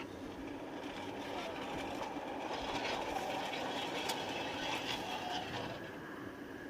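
5-inch gauge live steam locomotive running on its track, a steady mix of steam and wheel noise with a few light clicks, growing louder in the middle and easing toward the end.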